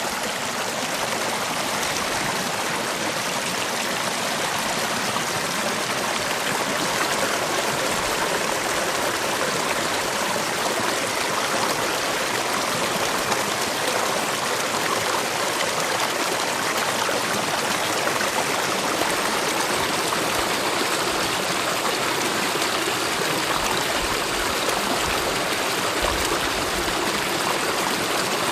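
Mountain valley stream with water rushing steadily, an unbroken even noise.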